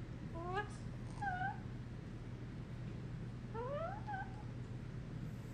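Indian ringneck parrot vocalizing: three short calls that glide in pitch, two close together about a second in and a longer rising call about four seconds in, over a steady low hum.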